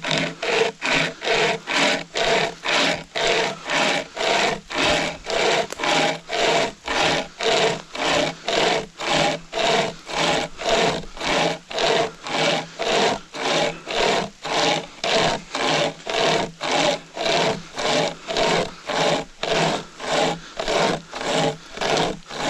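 Pocket chainsaw, a hand-pulled saw chain, cutting through wood with steady back-and-forth rasping strokes, about two a second.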